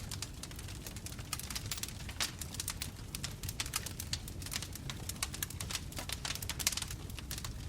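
Bonfire crackling: many quick, irregular snaps and pops from the burning wood over a steady low rumble of the flames.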